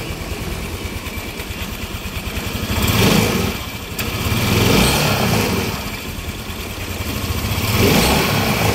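Yamaha NMAX scooter engine and CVT running on a test after repair, its throttle opened and closed three times so the engine swells and falls back. The CVT's worn, loose roller housing and its sliders have just been replaced to cure a noisy CVT.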